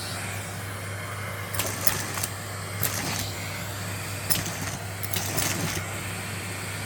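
Henry canister vacuum cleaner running steadily while pistachio shells are sucked up, clattering through the hose as sharp clicks, several of them between about one and a half and six seconds in.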